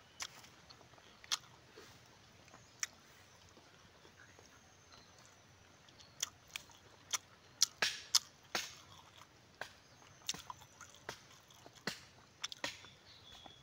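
Close-up mouth sounds of a person eating tamilok (raw shipworm) with rice: sharp wet smacks and clicks of chewing. A few come in the first half, then they come more often from about six seconds in.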